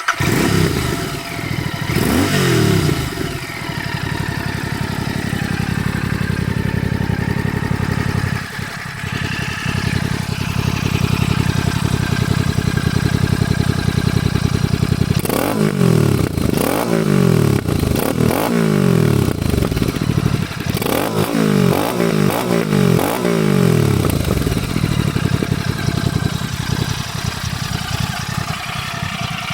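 Royal Enfield Continental GT650's 648 cc parallel-twin engine starting up and idling, then revved in a run of quick throttle blips about halfway through before dropping back to idle.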